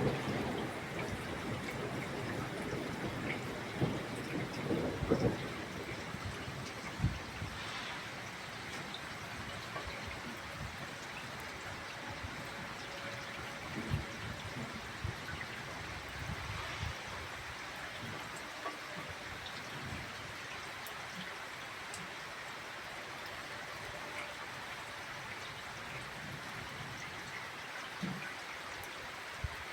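Steady summer rain falling, with drops pattering and water trickling. A few louder drop impacts stand out in the first seven seconds.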